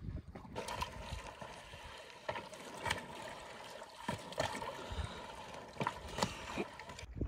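Water running, with a string of irregular sharp knocks and scrapes over it.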